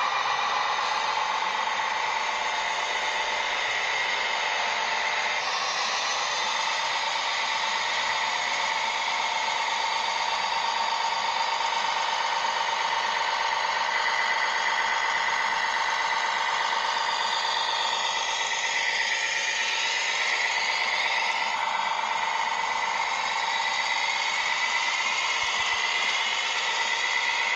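Small electric motors and gearboxes of remote-controlled construction models whining steadily, with the pitch gliding up and down for a few seconds past the middle as the motors change speed.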